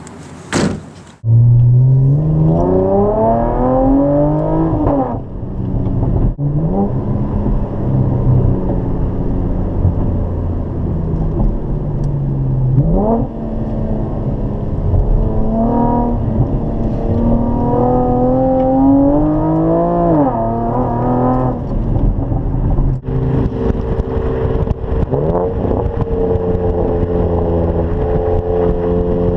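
Chevrolet Camaro exhaust with Dynomax Race Bullet mufflers under acceleration: the engine note climbs in pitch and drops back at each gear change, several times over, then holds a steady cruise near the end.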